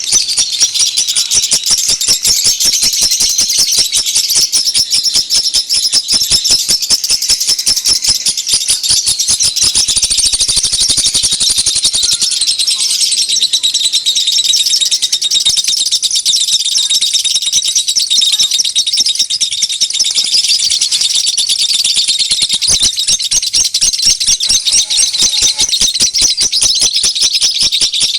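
Dense, unbroken chorus of small birds chirping and twittering rapidly and high-pitched, a bird-lure (pikat) call recording used to draw in wild birds.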